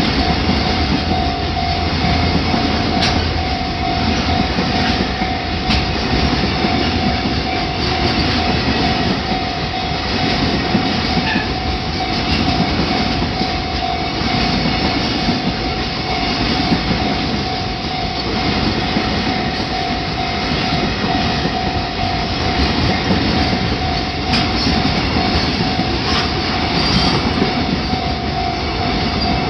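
Train passing over a railway level crossing, its wheels clattering steadily over the track for the whole stretch. A steady high tone runs throughout, and a few sharp clicks stand out.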